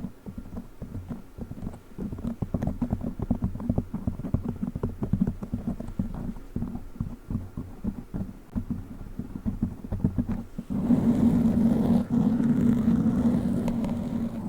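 A fake witch-finger fingernail scratching and rubbing a foam microphone cover: quick irregular strokes at first, turning into continuous rubbing after about ten seconds.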